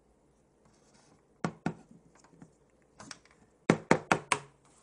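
Small plastic toy figures handled on a hard surface: a few light clicks and taps, then a quick run of four louder taps near the end.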